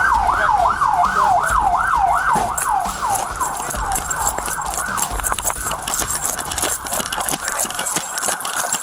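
Police siren on the fast yelp setting, warbling up and down about four times a second, fading after about five seconds. Scattered knocks and rustles run through it.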